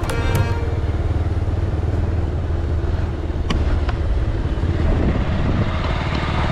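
Motorcycle engine running steadily while riding, a constant low hum with road and wind noise, and one sharp click about three and a half seconds in.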